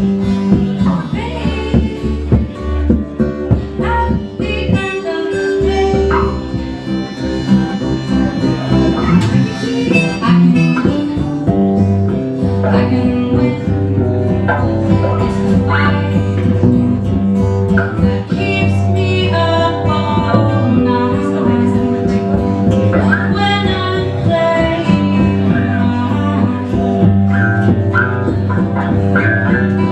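A band playing a song, guitar and harmonica carrying the tune.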